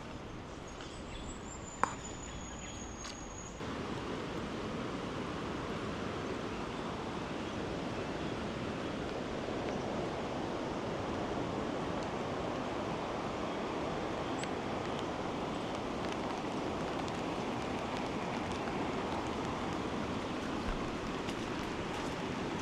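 Steady rushing of swollen, fast-flowing flood water, which comes in suddenly a few seconds in. Before it, a bird gives a high, thin, slightly falling call, and there is one sharp click.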